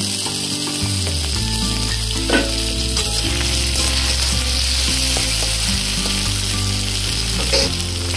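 Chopped tomato and onions sizzling in hot mustard oil in a metal kadai, a steady frying hiss. A metal spatula stirs and scrapes the pan, with sharp knocks about two seconds in and again near the end.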